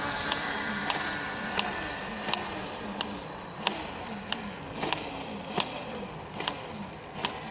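Electric dirt bike rolling along, with steady tyre and wind noise. A sharp tick repeats about one and a half times a second, spacing out slightly as the bike slows toward the end.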